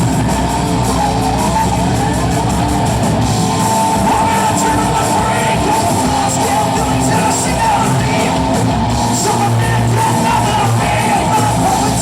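Live rock band playing a loud, hard-rock song, with sung and yelled vocals over guitar.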